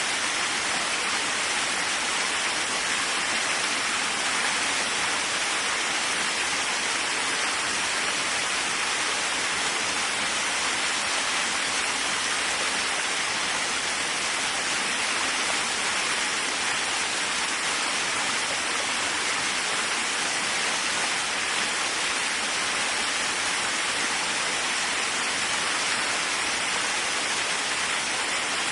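Waterfall: a steady, even rush of falling water, unbroken and without distinct splashes.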